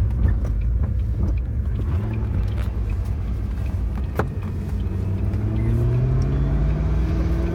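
Ford GT's supercharged 5.4-litre V8 heard from inside the cabin under way, with a steady low rumble and road noise. The engine note rises in pitch from a little past the middle as the car speeds up, and there is one sharp click about four seconds in.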